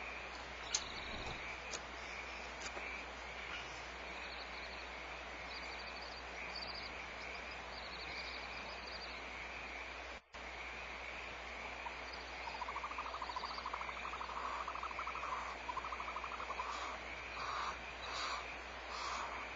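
Frogs calling in repeated trilled croaks, starting a little past the middle, over a steady background hiss.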